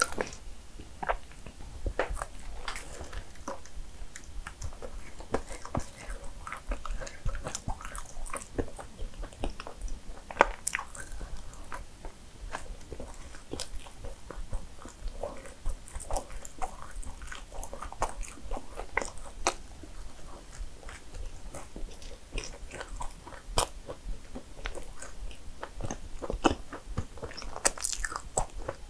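A person biting and chewing cinnamon rolls, many small irregular clicks of mouth and food throughout.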